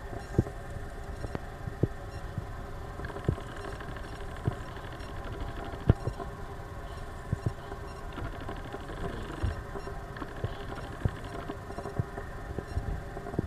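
Steady drone of a Boeing 737-500's CFM56 jet engines, carrying several steady tones, with short sharp knocks now and then, the loudest about six seconds in.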